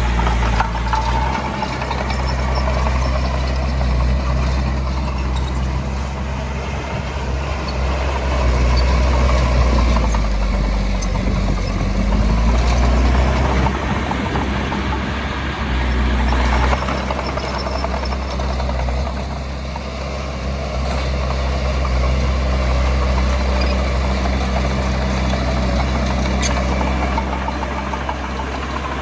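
Diesel engine of heavy earthmoving machinery running under load, its steady low drone swelling and easing every few seconds as the machine works.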